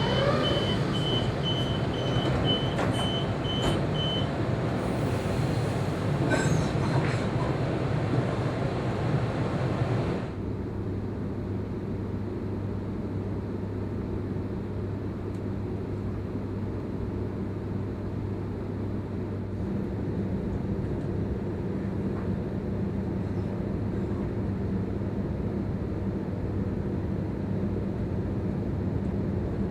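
Electric Sydney suburban train running, with a steady rumble and low hum. In the first few seconds a rapid string of short high beeps sounds over loud hiss. About ten seconds in, the hiss drops away suddenly, leaving the quieter steady rumble and hum.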